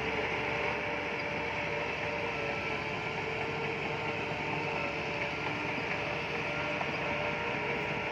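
Bulldozer running steadily while working, its diesel engine and tracks making a continuous mechanical noise with a few held whining tones on top.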